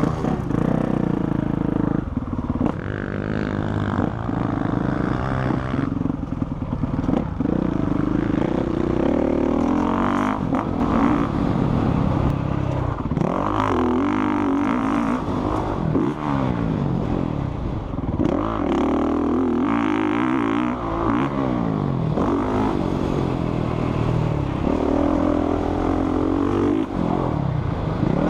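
Motocross bike engine revving hard and easing off again and again as it is ridden round the track, its pitch climbing and dropping every few seconds with throttle and gear changes.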